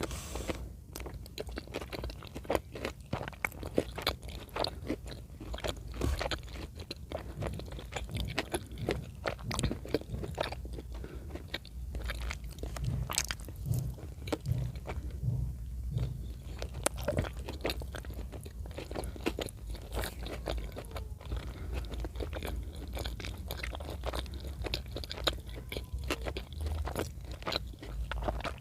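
Close-miked chewing and biting of chicken in cream sauce, with many irregular crunchy clicks.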